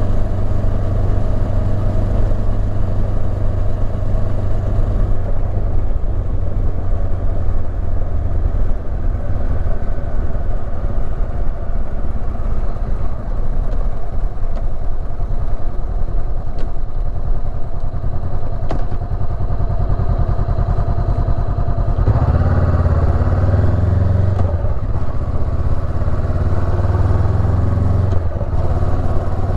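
Honda CB500X's parallel-twin engine running on the road as a steady low drone. About 22 seconds in it grows louder and changes pitch in steps as the bike picks up speed through the gears.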